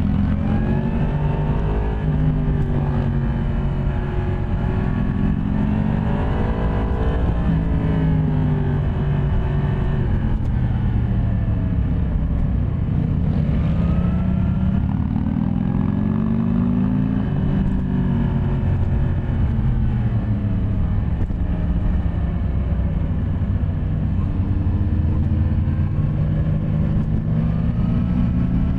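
Yamaha MT-10 SP's crossplane inline-four engine running under way, its revs rising and falling again and again as it accelerates and eases off, over a steady low rumble.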